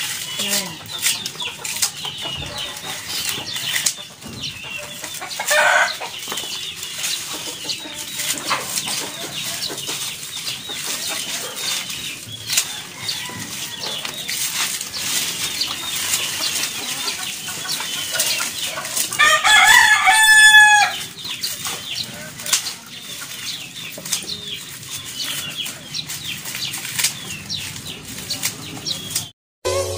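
Dry banana leaves crackle and rustle as they are handled and snipped with scissors, giving many small clicks throughout. Chickens are around, and a rooster crows about two-thirds of the way in, the loudest sound.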